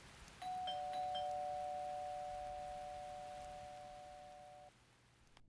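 Electronic two-tone doorbell chime: a higher note then a slightly lower one a quarter second later, both ringing on and fading slowly for about four seconds before cutting off. A faint steady hiss sits underneath.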